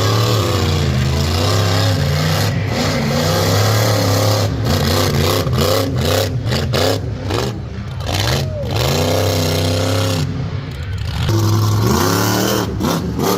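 Big race truck engine revving hard, its pitch rising and falling again and again.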